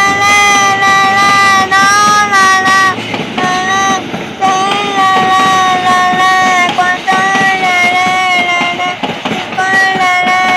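FEVE 1650-series diesel locomotive's horn sounding in a string of long blasts, each held for one to two and a half seconds at nearly the same pitch, with short breaks between them.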